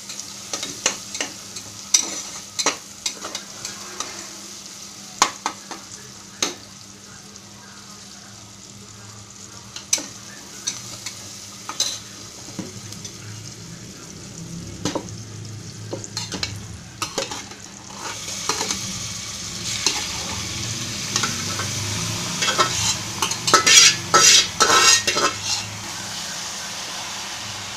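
A spatula scraping and knocking against the base of a pressure cooker as chopped onion and tomato fry in oil, over a steady sizzle. About two-thirds of the way through, the sizzling grows louder and denser as marinated chicken goes into the hot pan.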